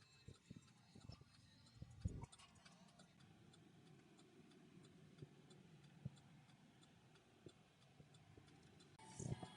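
Near silence with a faint, steady ticking at an even pace and a few soft knocks; a louder rumble of noise comes in near the end.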